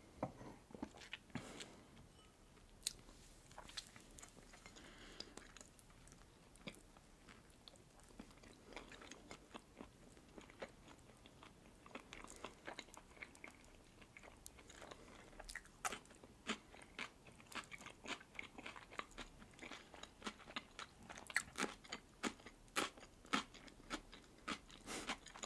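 Close-up chewing of a red caviar sandwich: faint, wet mouth clicks and smacks of biting and chewing, sparse at first and coming thicker and faster in the second half.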